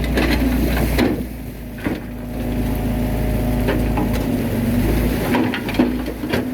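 Bulldozer's diesel engine running with a steady low rumble and drone, with scattered metallic clanks and knocks from the machine working; the low rumble drops away about five seconds in.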